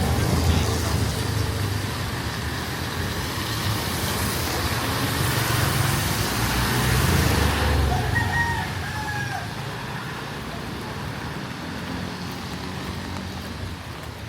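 Street traffic with a vehicle rumbling past in the first half, its noise building to about seven seconds in and then fading. Just after, a rooster crows once, briefly, over the steady hiss of the wet street.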